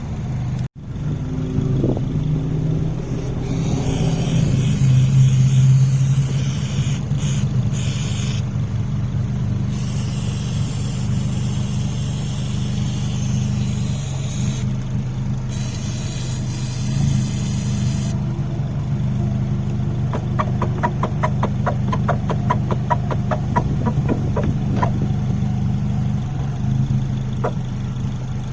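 Engine idling steadily, with stretches of hiss in the first half and a run of rapid, even ticking a little past the middle.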